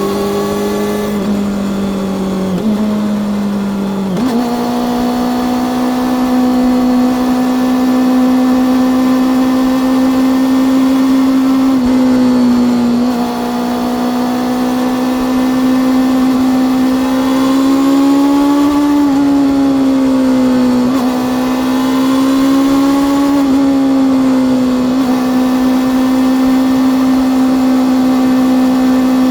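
Honda CB400 Super Four Revo inline-four motorcycle engine and exhaust, running under way at fairly steady revs. The pitch rises about four seconds in, then holds with small dips and swells, over road and wind noise.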